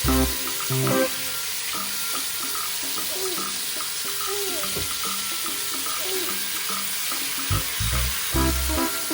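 Food sizzling in a frying pan, a steady hiss, with background music playing over it.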